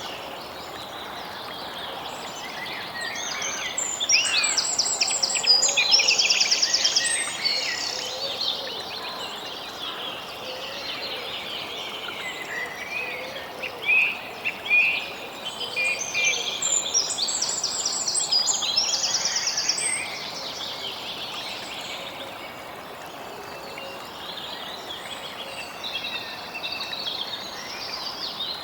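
Several songbirds singing and chirping over a soft steady outdoor hiss. A louder song ending in a fast trill comes about four seconds in and again about sixteen seconds in.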